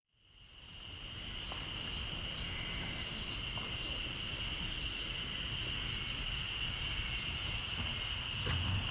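Steady insect chorus, an unbroken high-pitched drone, fading in over the first second, with a low outdoor rumble beneath.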